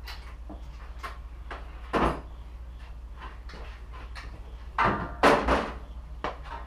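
Objects being handled: scattered light clicks and a few louder clunks, the loudest a cluster about five seconds in, over a steady low hum.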